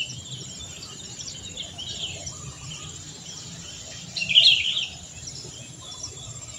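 Birds chirping, with short calls throughout and a louder cluster of chirps about four seconds in, over a faint low rumble.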